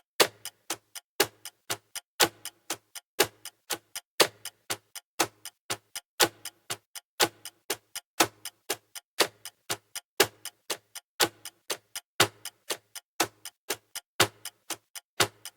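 Clock-style ticking sound effect of a countdown timer: even, sharp ticks at about four a second, with a louder tick marking each second.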